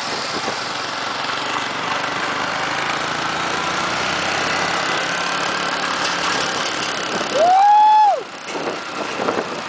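Motorcycle engine running steadily, its pitch slowly climbing through the middle, with one long drawn-out shout about seven and a half seconds in.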